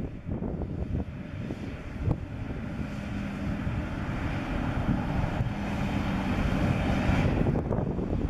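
Canadian Pacific diesel locomotive's engine running with a steady low rumble, while a train of autorack cars rolls past on the next track, its wheels on the rails making a rushing noise that builds for about seven seconds and then eases off.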